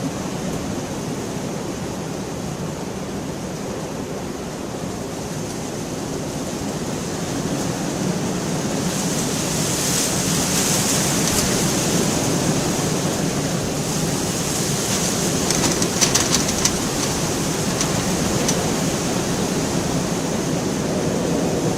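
Steady heavy rain falling, swelling louder about a third of the way through, with a brief cluster of sharper drop hits in the middle.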